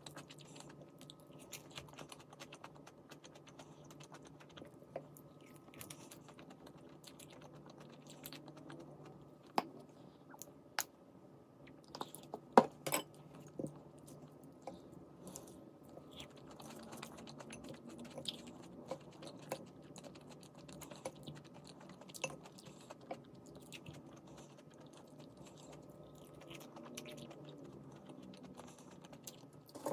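A person eating close to the microphone: chewing with scattered small clicks and knocks, the loudest a cluster about twelve to thirteen seconds in. A faint steady hum runs underneath.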